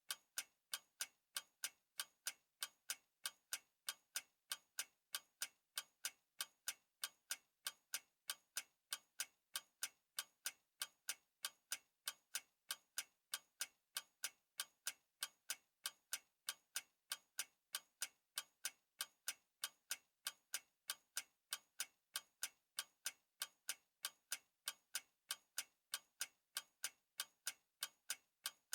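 Clock ticking steadily, with sharp, evenly spaced ticks at about three a second.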